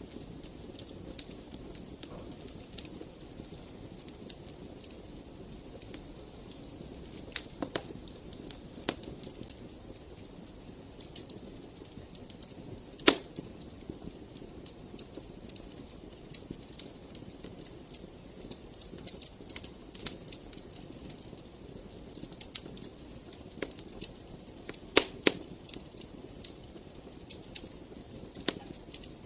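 Wood fire burning in a fireplace with a steady low hiss, crackling throughout with scattered sharp pops. The loudest pop comes about 13 seconds in, and a cluster of strong pops comes around 25 seconds.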